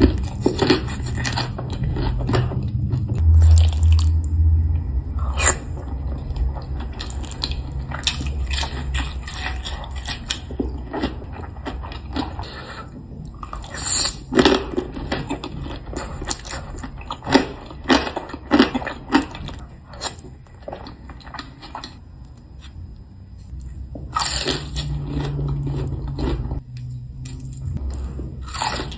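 Close-miked eating: a string of irregular crisp bites and chewing with wet mouth sounds, over a steady low hum.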